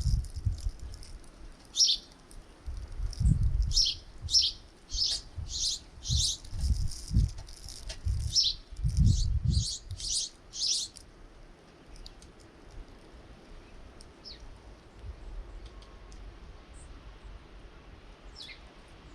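Small birds chirping at a feeder: a dense run of short, high chirps for about the first eleven seconds, then only a few scattered calls. Low rumbles come and go under the chirping in the first half.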